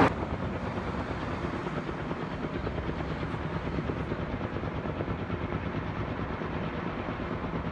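Logging helicopter's rotor beat: a steady, rapid chopping over engine noise.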